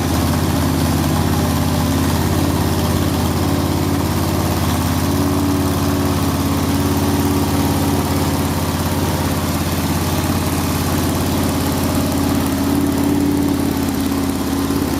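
Freshly assembled 327 Chevy small-block V8 on an engine run stand, running steadily.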